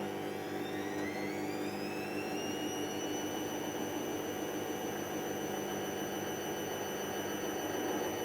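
Hoover DYN7144XD1 washing machine running, its motor whine rising in pitch over the first few seconds and then holding a steady high tone as the drum speeds up toward spin, over a steady hum.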